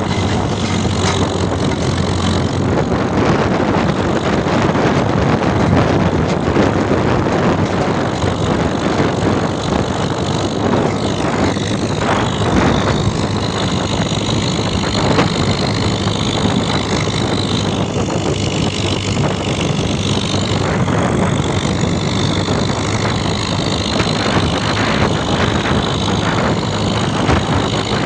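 Tractor engine running steadily, with a dense noisy rush over its low hum.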